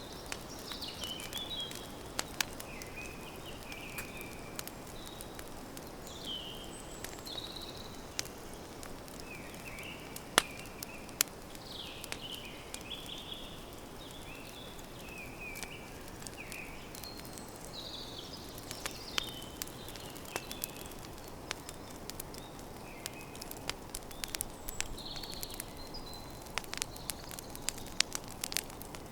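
Campfire crackling, with sharp pops scattered throughout over a steady low hiss; the loudest pops come about ten and eleven seconds in and the crackling thickens near the end. Small birds chirp short, repeated notes in the background.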